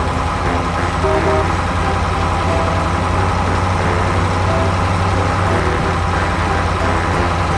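Truck engine running steadily with a low, even drone, and short high notes sounding over it now and then.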